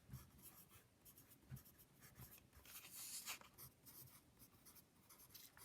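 Faint, intermittent scratching with small knocks, like writing or handling paper, a little busier about three seconds in.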